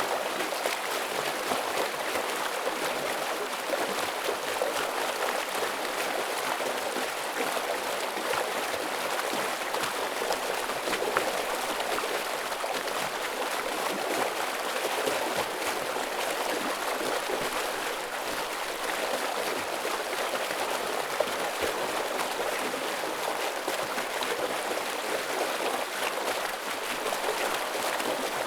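Forest stream rushing steadily over rocks, a dense splashing water noise with small gurgles and trickles and no lulls.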